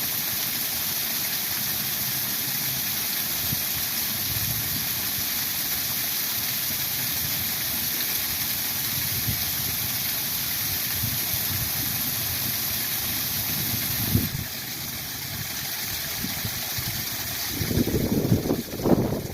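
Steady rush of a spring waterfall. About fourteen seconds in the sound shifts, and near the end low rumbling bursts come through over the water.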